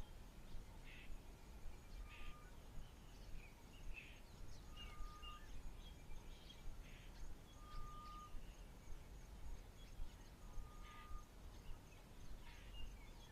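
Faint bush ambience of wild birds calling: one repeats a short, steady whistled note every two to three seconds, with scattered brief chirps from others between. A faint high, even pulsing and a low rumble lie underneath.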